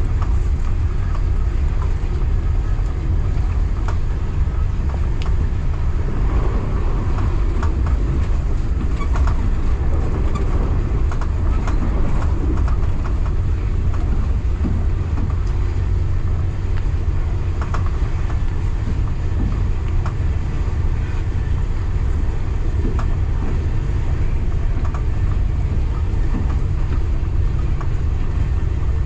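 Local passenger train running along the track: a steady low rumble, with scattered faint clicks and squeaks from the carriage.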